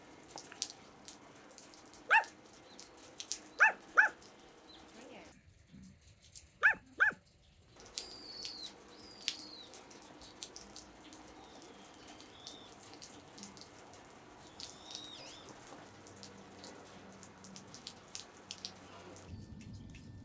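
A dog barking: five short, sharp barks, one, then two, then two more close together. After them come a few faint high chirps.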